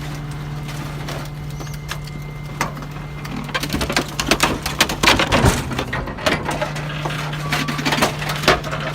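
Garbage truck running with a steady low hum, then rubbish cracking and crunching in quick, irregular knocks from about three and a half seconds in, as waste is crushed in the truck.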